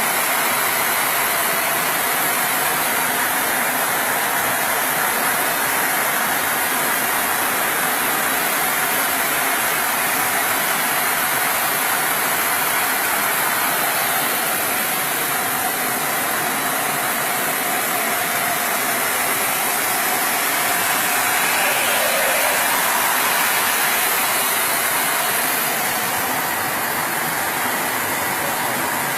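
Automatic glass washing machine running with its water pump on: a loud, steady rush of spraying water over the machine's running noise.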